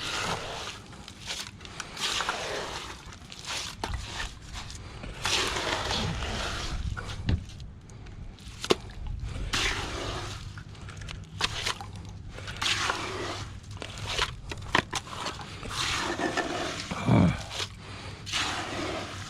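Irregular scraping and scooping of wet cement being worked into a piling jacket, with a few sharp knocks in between.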